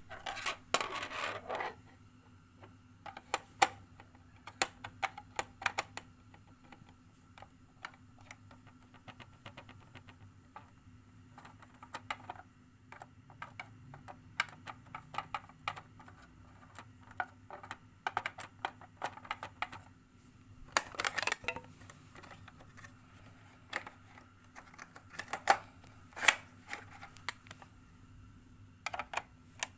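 Irregular small clicks, taps and scrapes of hands and tools handling a Sony ICF-J40 portable radio under repair, with a few busier rattling spells, over a faint steady hum.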